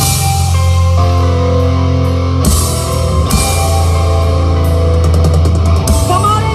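Live rock band playing loud: held guitar chords over bass and drums, with crashes about two and a half and three seconds in.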